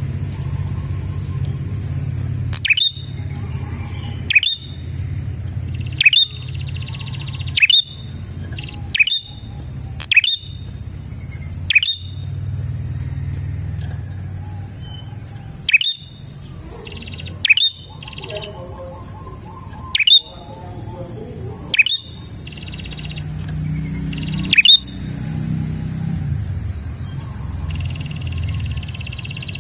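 A prinia (prenjak) calling, repeating loud, sharp down-slurred notes every one to two seconds, some followed by a short buzzy trill, over a steady high-pitched drone.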